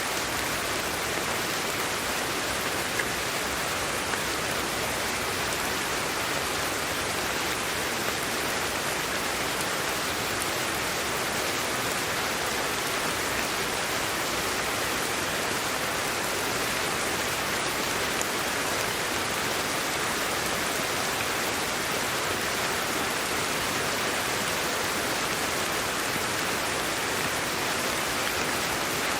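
Steady sleep-aid white noise: an even, unbroken hiss that does not change.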